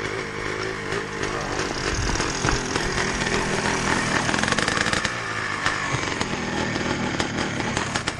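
Motorcycle engine running hard at high revs, its pitch climbing a few seconds in.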